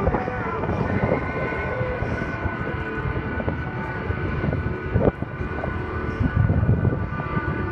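Single-engine aerobatic plane's piston engine and propeller droning steadily in flight during an aerobatic display.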